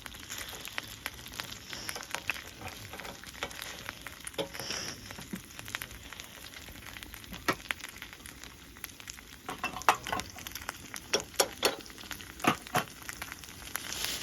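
Hash browns frying in reused hot oil in a pan, a steady sizzle with scattered crackles. About two thirds of the way in come louder, sharper clicks and taps.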